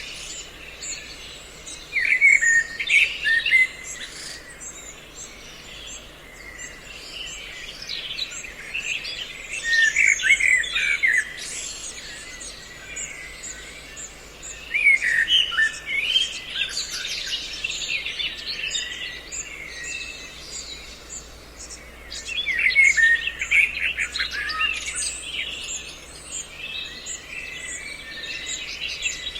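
Songbirds chirping and calling in lively bursts of a few seconds, about every five to seven seconds, with quieter twittering between. This is a mixed recording of several bird species, used as a lure call for trapping.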